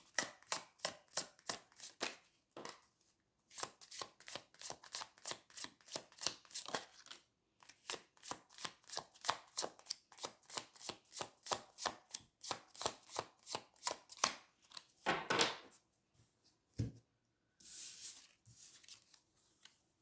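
A tarot deck being shuffled by hand, the cards giving a quick, regular patter of ticks about four a second, with two short pauses. Near the end the shuffling stops, giving way to a brief swish, a soft thump and a sliding hiss as cards are drawn and laid down.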